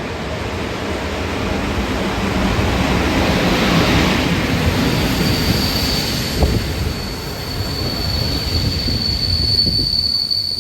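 A train passing on the tracks, its rumble building to a peak near the middle. From about halfway a high, steady wheel squeal sets in and holds, with one short knock shortly after it starts.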